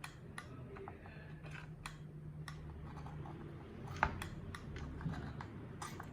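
Scattered light clicks and taps over a low steady hum, with a sharper click about four seconds in.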